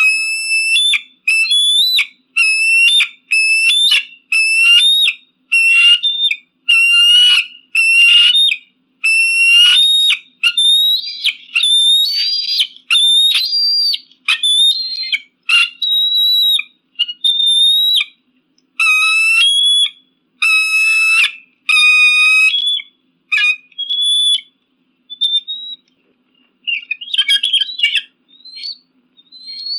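Eagle calling a long series of shrill, high-pitched whistled calls, about one a second, each with a quick jump in pitch. Near the end the calls become shorter, sparser and more ragged.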